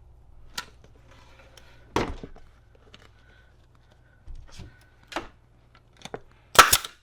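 Staple gun firing staples through a vinyl seat cover into a seat pan: a series of sharp clacks at uneven intervals, the loudest near the end.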